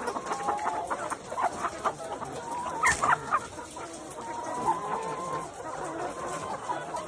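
A flock of hens clucking, many short overlapping calls and drawn-out clucks, with one louder call about three seconds in.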